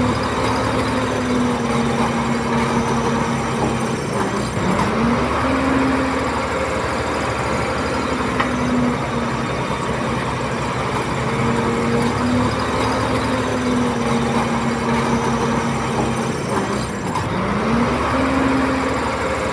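Bulldozer's diesel engine running under working load. Its pitch sags and climbs back twice, about four seconds in and again near the end.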